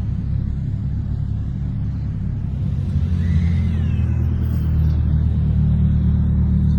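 Car engine running at low revs with a deep, steady rumble that grows louder about three seconds in, as if the car is pulling closer.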